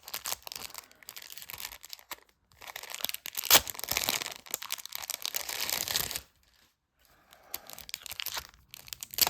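Plastic packaging crinkling and tearing as it is opened by hand, with one sharp crack about three and a half seconds in and a short pause after about six seconds.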